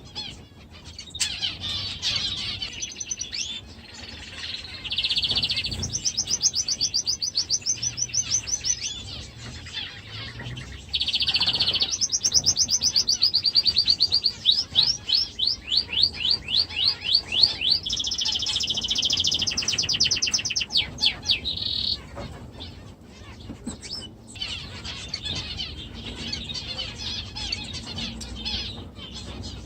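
Budgerigars chirping and chattering, with loud runs of quick, high chirps that are densest in the middle and end about two-thirds of the way through.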